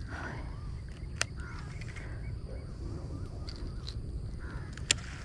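Birds calling again and again with short, harsh calls, over a steady low rumble of wind on the microphone. Two sharp clicks: one about a second in and a louder one near the end.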